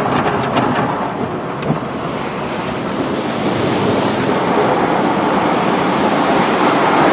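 Automatic car wash spraying water against the car, heard from inside the cabin: a loud, steady rushing and drumming of water on the body.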